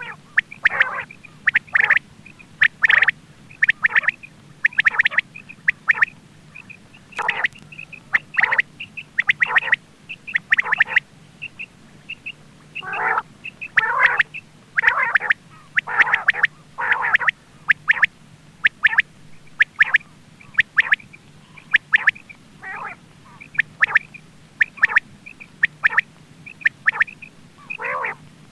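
Quail calling: short, sharp calls repeated one to two a second, some in quick doublets and runs, over a faint steady low hum.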